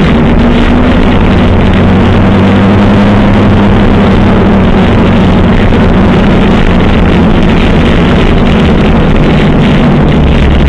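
Motorcycle engines running steadily at low road speed.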